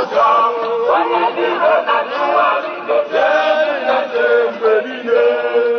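A group of protest marchers singing a chant together, with long held notes.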